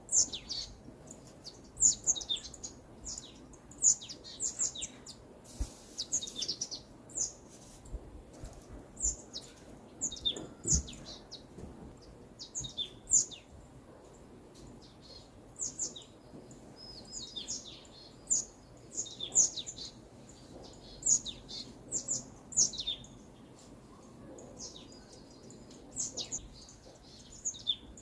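Small songbirds chirping in a forest: many short, high, downward-sliding chirps, several a second at times, over a faint low background hiss.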